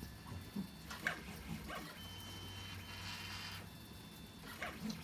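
3D printer running, its stepper motors giving a steady whine and low hum that switch between tones as the head and bed move. A few short squeaky sounds come on top, in the first two seconds and again near the end.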